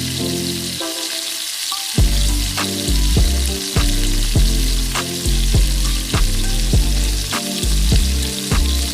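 Pork ribs sizzling on a barbecue grill: a steady hiss. Over it plays background music whose beat comes in about two seconds in.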